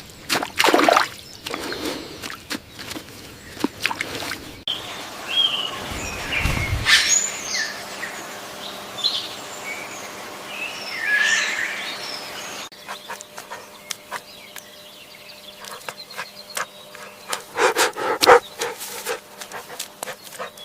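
Animal calls in three short recordings joined by abrupt cuts, with separate high chirping calls in the middle one.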